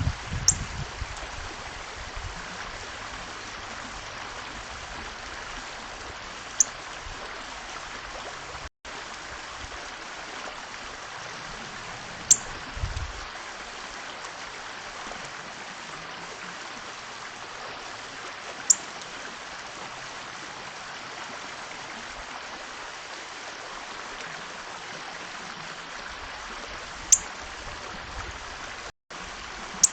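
A steady rushing background noise with short, high chip calls from birds at the feeder, about six of them spaced several seconds apart. The sound cuts out completely for an instant twice.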